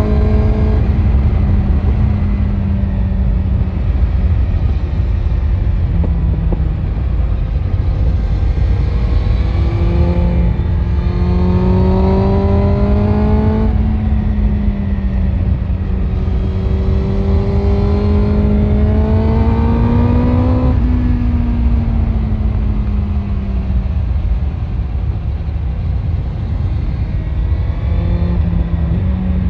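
BMW S1000RR inline-four sport bike engine running through an Akrapovic exhaust while riding. Twice it climbs steadily in pitch under acceleration and drops sharply at a gear change, over a heavy low rush of wind on the microphone.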